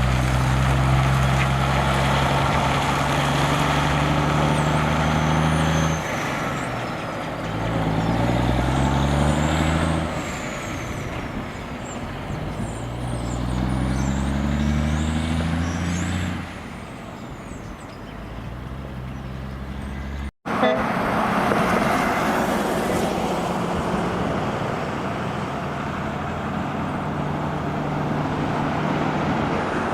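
Heavy truck's diesel engine running steadily, then climbing in pitch twice as it accelerates up through the gears. After a sudden break, another truck's engine and road noise carry on steadily.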